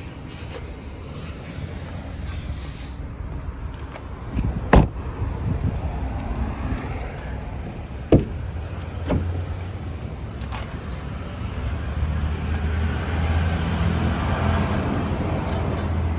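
Car sounds: sharp knocks about five seconds and eight seconds in, a smaller one just after, over a steady low rumble that grows louder in the second half.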